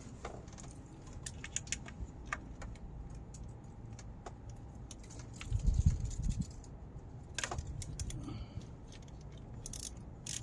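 Hand tools being handled on the engine: scattered small metallic clicks and rattles, and a dull low bump about six seconds in. Near the end a ratchet begins clicking, starting to loosen the 10 mm bolts that hold the ignition coils.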